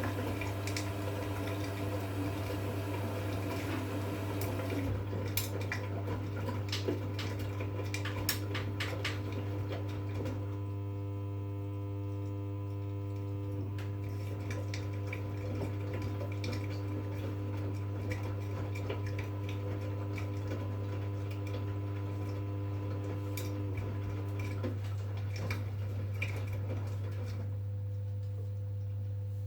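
V-Zug Unimatic SL washing machine working through a 40°C wash: a steady low motor hum with water sloshing and a run of light clinks and clicks from the drum. The motor tones stop about 25 seconds in.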